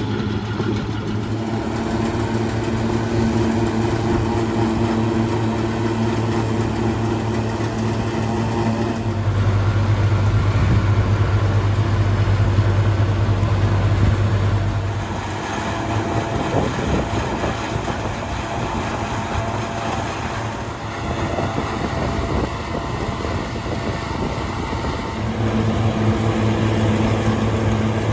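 Farm tractor engine running steadily. It gets louder for several seconds about a third of the way in, then its note changes before settling back to the first sound near the end.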